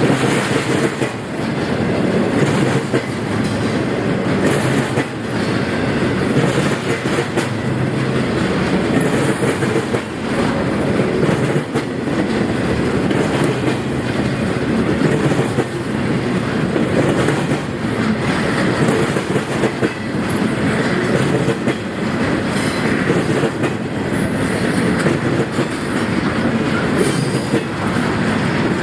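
Intermodal freight train's cars rolling steadily past, steel wheels clicking over rail joints over a continuous rumble.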